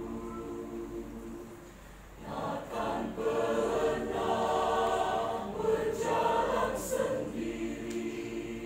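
Choir singing in several-part harmony. A held chord thins and quietens about a second and a half in, then the voices swell back in louder just after two seconds and sustain.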